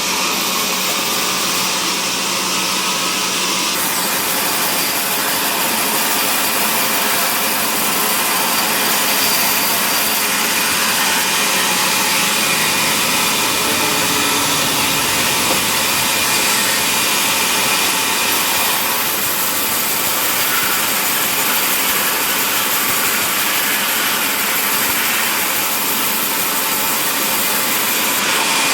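Powered saw and woodworking machinery running steadily while cutting mahogany timber: a loud, even noise that changes character abruptly twice.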